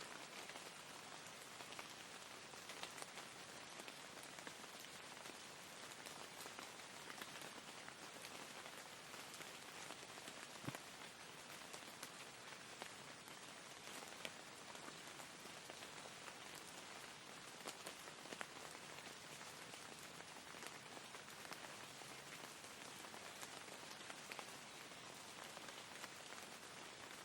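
Steady soft rain with the patter of individual drops.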